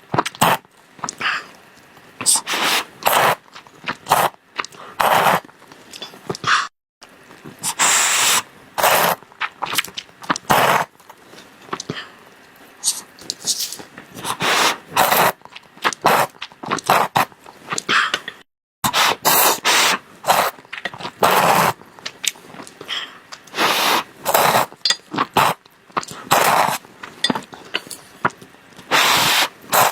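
Close-miked eating sounds of someone eating chocolate cakes and desserts: chewing, smacking and mouth sounds in quick, irregular bursts. The sound drops out to silence twice, briefly.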